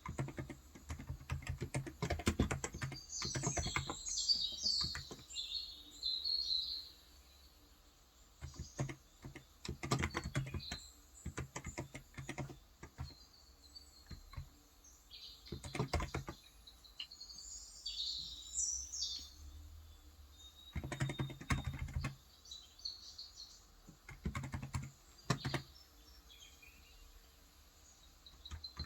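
Typing in bursts on a Cox Endeavour electrostatic capacitive (contactless) keyboard with 35 g switches, clusters of key clicks with short pauses between. Birds chirp twice, a few seconds in and again past the middle.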